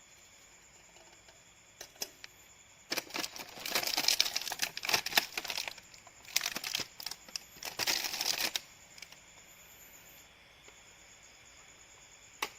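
Two stretches of dense, irregular crackling and clicking, each a couple of seconds long, with a few single clicks before and after.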